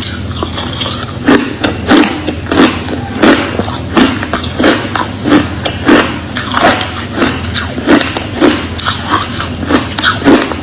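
Close-up crunching of crushed clear ice being chewed, a steady run of sharp bites about one and a half a second.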